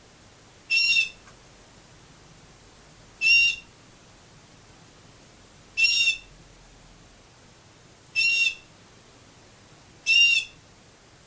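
Canary giving a single clear call note, five times in a row a couple of seconds apart, each about half a second long.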